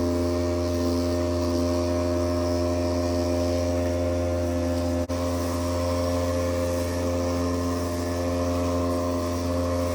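Homemade vacuum cleaner's 12-volt DC motor spinning its fan, running steadily with a low hum and a whine. The sound breaks for a split second about halfway through.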